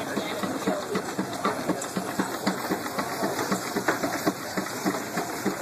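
Single-cylinder Case steam traction engine running slowly with a steady, rhythmic exhaust chuff as it is driven back down a steep incline ramp.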